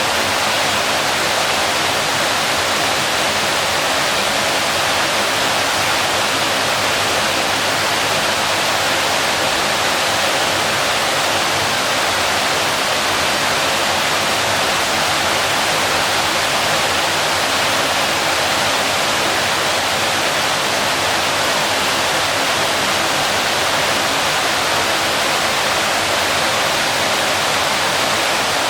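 Waterfall: water falling and crashing in a steady, full rushing noise that does not change.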